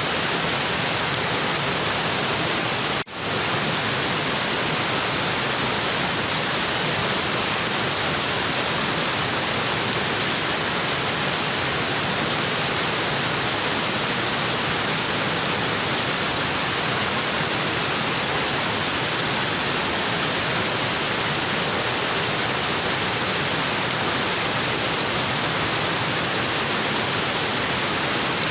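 Waterfall pouring onto rocks in a steady, unbroken rush of water, with one very brief dropout about three seconds in.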